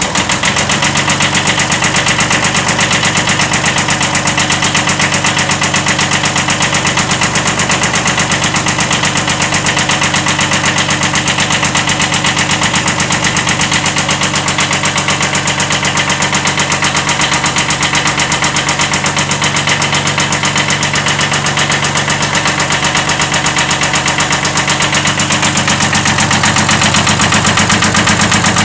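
1979 Kubota B7100 tractor's three-cylinder diesel engine idling steadily, just started, with a rapid even pulse and a slight rod knock. It gets a little louder near the end.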